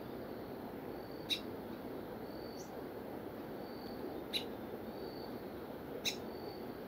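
Birds calling over a steady low outdoor hiss: three sharp high chips a few seconds apart, a short falling note, and faint short high whistles repeating about every second.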